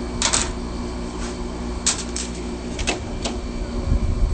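Frigidaire Gold Star window air conditioner running with its compressor on: a steady hum and low rumble, with a few short clicks and rattles over it. The compressor is sounding healthy.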